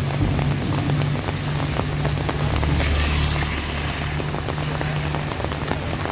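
Heavy rain falling, with many separate drops striking close by. A low steady hum runs underneath.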